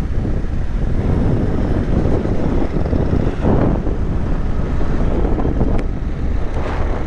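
Wind rumbling on a helmet-mounted microphone over a running motorcycle, a steady rough noise with no clear engine note.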